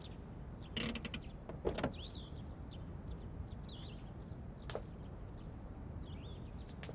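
Short bird chirps now and then over a faint low hum, with a few sharp light knocks, the loudest about a second and a half in.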